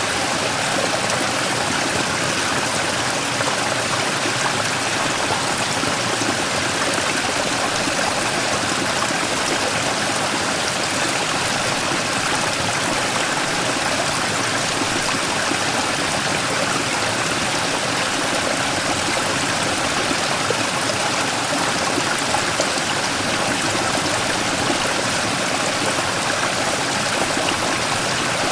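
Mountain stream pouring over and around a large rock in a small waterfall: a steady, unbroken rush of water.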